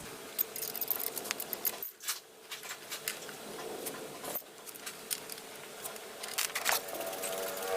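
Scattered small metallic clicks, taps and light scrapes of hand tools and small engine parts being handled, with a short pause about two seconds in and again past four seconds.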